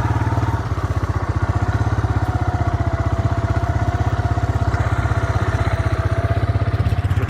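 Farm bike engine running steadily at low speed, close by, with an even, fast putter.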